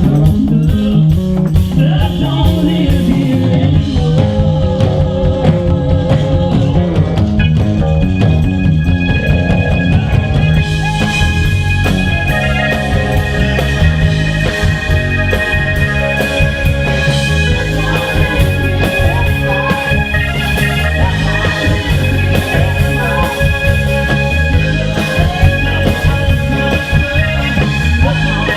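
A band playing rock music with electric guitar.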